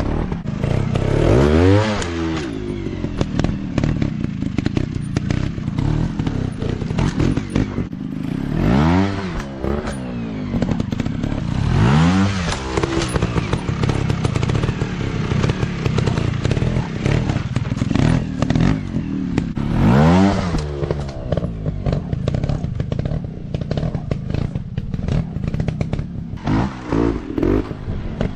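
Off-road dirt bike engines running, revving up and dropping back several times with quick throttle blips near the end, over a steady clattering engine note.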